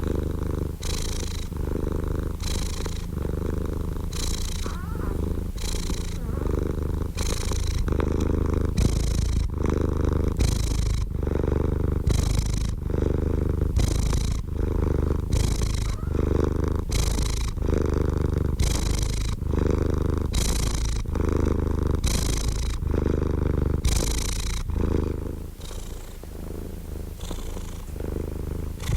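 Domestic cat purring close up, a continuous low rumble pulsing evenly with its in-and-out breathing, roughly one cycle a second, easing a little near the end.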